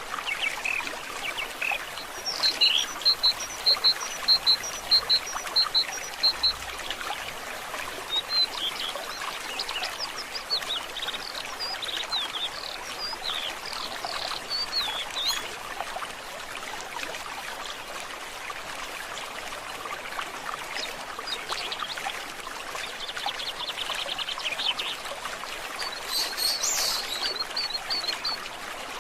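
Forest stream trickling steadily, with birds singing over it: a run of about ten short, evenly spaced high notes a couple of seconds in, then varied chirps, a fast trill later on and a last burst of high notes near the end.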